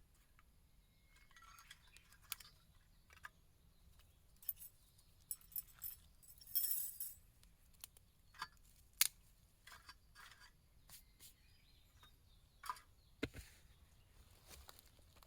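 Scattered light clinks and taps of small hard objects being handled, irregular and faint, with a short rustle about six and a half seconds in.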